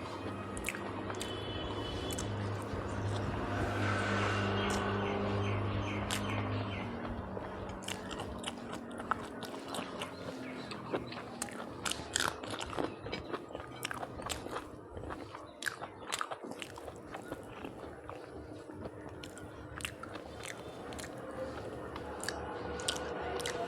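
A person chewing and biting food with wet, smacking mouth clicks and some crunching. The clicks come densely through the second half.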